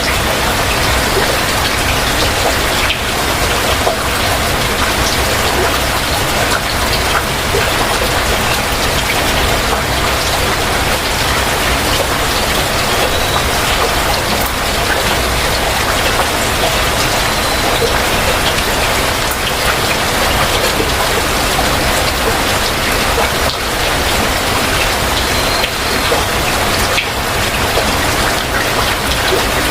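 Heavy rain falling steadily, a dense even hiss with many individual drops pattering close by on hard surfaces.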